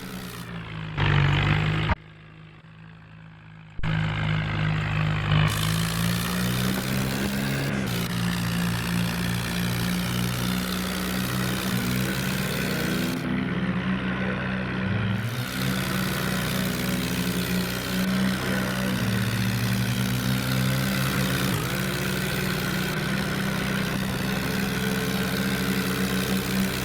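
Heavy diesel engine running under load, its pitch rising and falling as the revs change, with a brief drop-out about two seconds in.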